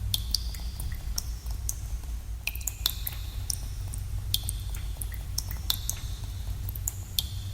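Water dripping in a cave: irregular drops plinking into pools, many a second, each with a short ringing note, over a steady low rumble.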